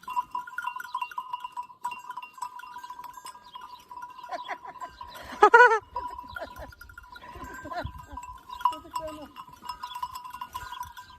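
Flock of sheep with neck bells clinking steadily, several sheep bleating; the loudest bleat comes a little over five seconds in.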